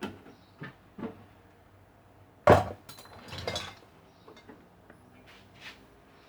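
A few sharp knocks and clinks of hard objects being handled, the loudest about two and a half seconds in, followed by a short clatter.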